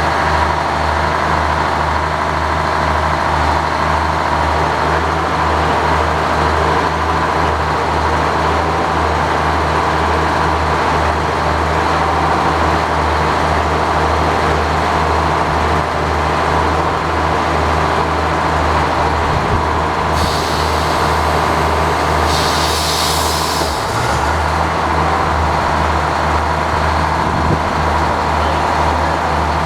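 Engine powering an old sawmill, running steadily with a low pulsing drone. A hiss rises twice, about twenty seconds in.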